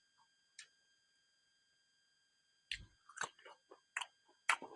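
Close-up mouth sounds of a person chewing silkworm pupae: quiet at first with a single small click, then from about halfway in a quick run of sharp clicks and wet smacks.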